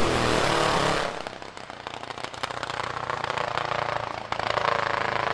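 Race car engine sound dying away about a second in, after which a fainter engine is heard running and rising in pitch again later on, with scattered ticks and pops.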